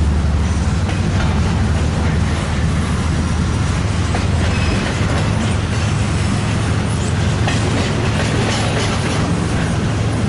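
Train rolling by on the track: a steady low rumble with wheel-on-rail noise and scattered light clicks.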